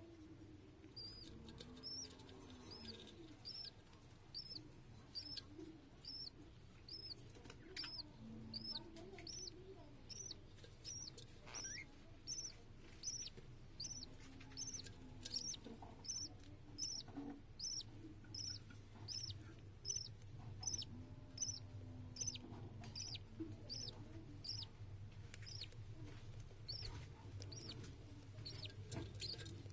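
Budgerigar chick begging to be fed: a long, regular series of short high chirps, one or two a second.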